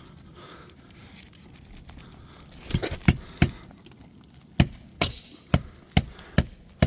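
Footsteps on an asphalt shingle roof: a run of sharp clicks and taps at a walking pace, about two a second, starting a little under three seconds in after a quiet stretch.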